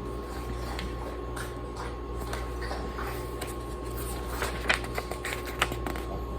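Light clicks and rustles of a children's picture book being handled and its page turned, with a few sharper taps toward the end over a steady electrical hum.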